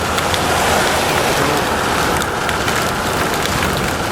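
Heavy rain pelting a car, heard from inside the cabin over the vehicle's road noise: a dense, steady hiss with scattered ticks of drops hitting.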